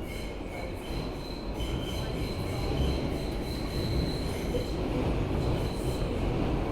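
R160B (Alstom) subway train running, with a steady rumble of wheels on rail and thin high-pitched wheel squeal that comes and goes.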